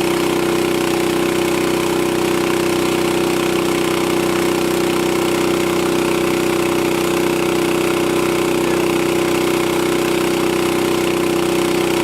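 Boat engine running at a steady speed, an unchanging drone.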